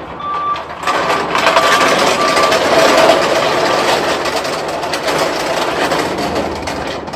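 A small engine running steadily, with a faint high whine over the engine noise.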